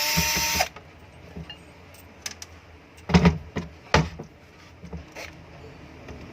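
A power drill-driver runs briefly at the start, its pitch rising as it spins up, driving out a screw of the exhaust fan motor's back cover. Then metal parts are handled with a few sharp knocks and clatters, the loudest about three and four seconds in.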